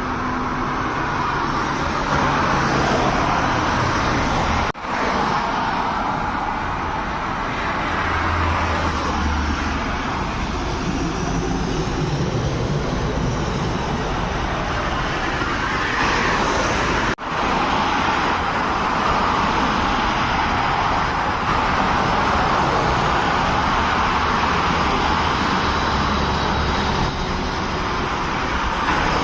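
Steady highway traffic noise: the tyre and engine roar of passing vehicles, with two short dropouts where the sound cuts off for an instant.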